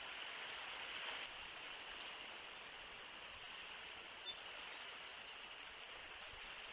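Steady outdoor hiss picked up by a nest-cam microphone, with one brief high peep about four seconds in.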